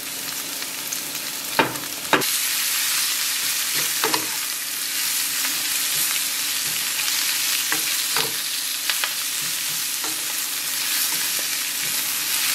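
Onion, spinach and squash blossoms sizzling in a hot frying pan as a wooden spatula stirs them, with a few knocks of the spatula against the pan. The sizzle gets louder about two seconds in.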